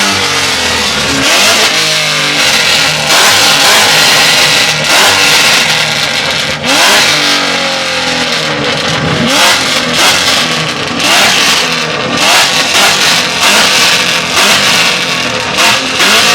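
Car engine with a loud exhaust revved hard again and again, its pitch sweeping up and falling back in quick repeated revs.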